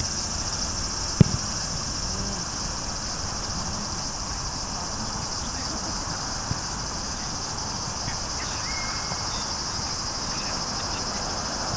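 Steady high-pitched chorus of chirring insects, with one sharp thump about a second in.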